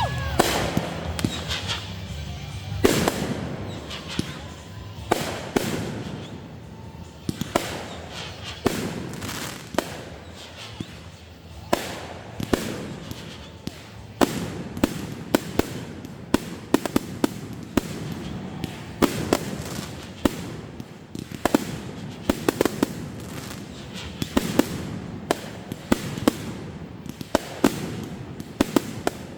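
Fireworks going off in a rapid series: a stream of sharp cracks and crackles, with heavier bangs every couple of seconds that trail away.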